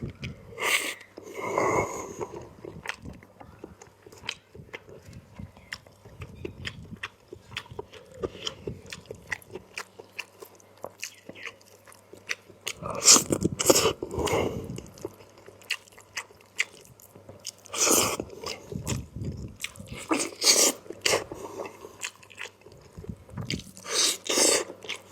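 Close-miked eating: chewing and lip-smacking mouth sounds of someone eating chicken curry with rice, a steady patter of small clicks with a few louder bursts spread through.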